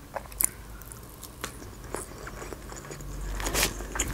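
Close-up chewing and crunching of a mouthful of Caesar salad, with small sharp clicks, and a fork working in the salad bowl near the end.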